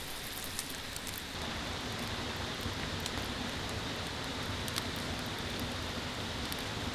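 Steady rush of a mountain stream, with a few sharp crackles from a wood campfire.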